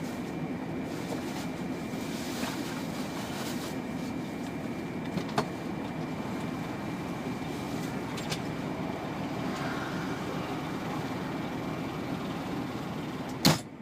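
Steady low rumble of a vehicle on the move, with a faint constant high tone over it. A couple of light clicks come midway, and a sharp knock sounds just before the end, after which the sound drops away.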